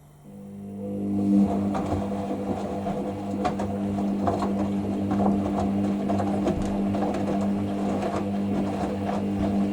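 Hoover SIX washing machine's drain pump starting about a third of a second in and running with a steady hum, with small knocks and clicks over it. The machine is draining before its first intermediate spin.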